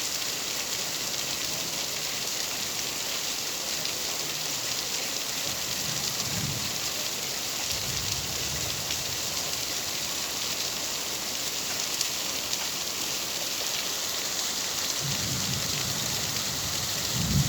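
Steady rain falling, a dense even hiss of many drops, with soft low rumbles coming and going a few times.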